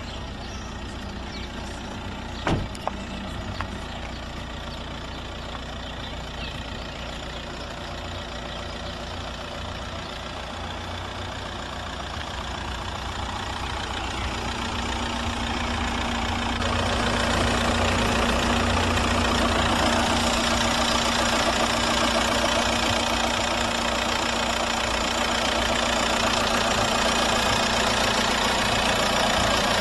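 The 2003 Audi A4's 1.9 TDI four-cylinder turbodiesel engine idling. There is a sharp click a couple of seconds in, and the sound grows louder and brighter around the middle, then holds steady.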